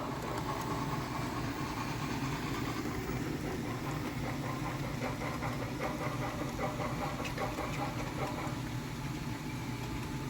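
Sound-equipped model locomotive playing a steady diesel engine idling sound, with light clicking over the top.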